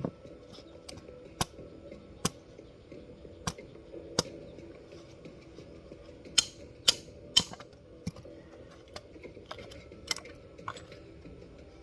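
Wood fire crackling: irregular sharp pops and snaps from burning firewood, with a quick run of louder pops about six and a half to seven and a half seconds in.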